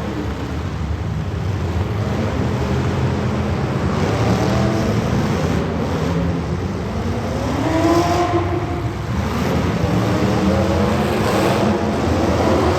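Street stock race car engines running hard on track, several cars together, with the pitch rising and falling as cars go by, about eight and eleven seconds in.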